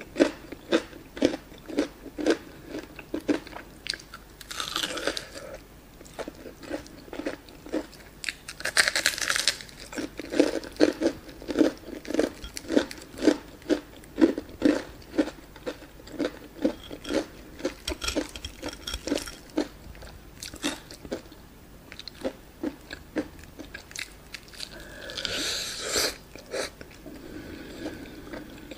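Close-up chewing of a crunchy breaded fried chicken drumstick: steady rhythmic crunching at about two chews a second, with a few louder bursts of crisp crunching.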